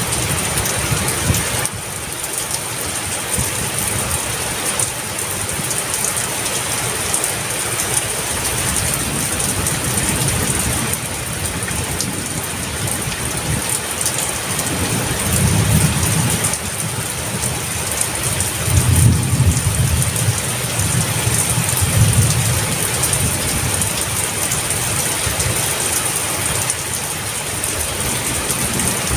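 Heavy rain falling steadily, with low thunder rumbles about halfway through and again, longer, a few seconds later.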